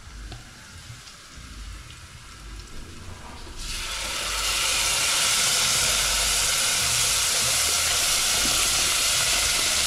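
Blended tomato, ginger and garlic purée poured into a pot of hot fried onions: a faint sizzle at first, then about three and a half seconds in a loud, steady sizzling hiss starts suddenly as the purée hits the hot oil.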